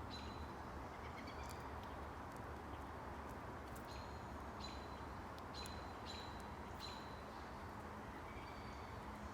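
Small songbirds at a feeder giving short, sharp chirps, about eight in all, most of them bunched in the middle, over a steady low background hum.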